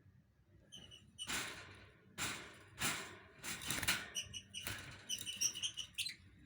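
Lovebirds chirping: short high-pitched chirps, in a quick string near the end, with several louder noisy bursts in between.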